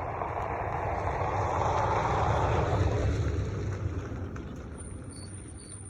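A road vehicle passing by, its engine and tyre noise swelling to a peak about three seconds in and then fading away.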